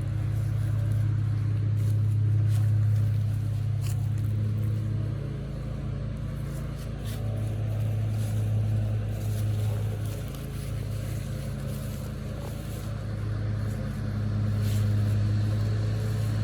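A motor running steadily with a low hum that swells and eases in loudness, with a few faint clicks.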